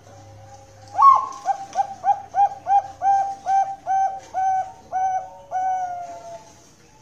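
Zebra dove (Bangkok-line perkutut) singing its cooing song. An opening note is followed by about a dozen repeated coos that come quickly at first, then slow and lengthen, ending on one long drawn-out note.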